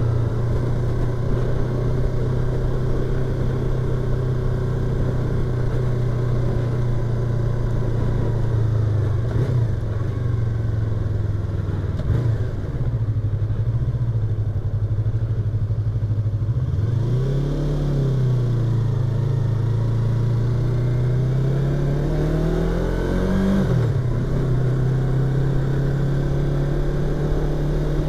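Yamaha YZF-R25's parallel-twin engine and exhaust under way, heard from inside the rider's helmet. It runs at mostly steady revs, with brief dips at gear changes; about two thirds of the way in the revs rise, then drop back.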